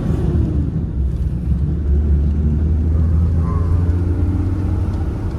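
Engine and road noise of a moving road vehicle: a steady low rumble, with the engine note sliding down a little just after the start.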